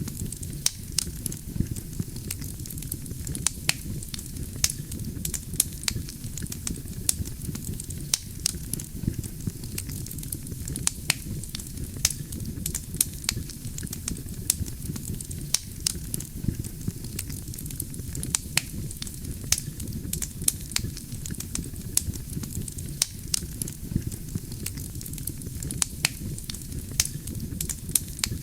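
Wood campfire burning: a steady low rumble of flames with frequent sharp crackles and pops from the burning logs, several a second.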